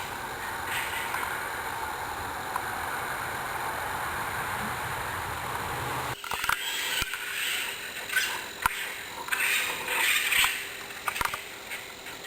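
Screeching calls of an unidentified wild animal in the woods at night, which the recorder guesses is an owl or a fox. A steady rushing noise cuts off suddenly about six seconds in, then short screeching calls come in irregular bursts with a few sharp clicks.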